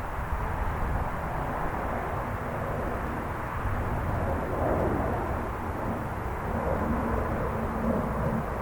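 Jet airliner's engines running in a steady, noisy rush heavy in the low end, with a faint steady tone coming in near the end.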